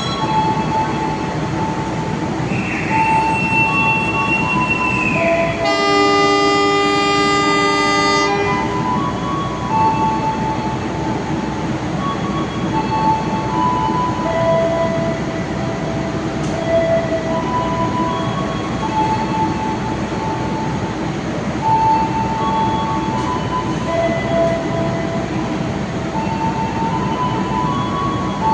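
Train running through the station, wheels rumbling with scattered short squeals. A high squeal lasts about three seconds, then the locomotive sounds its multi-tone horn once, held for about two and a half seconds, about six seconds in.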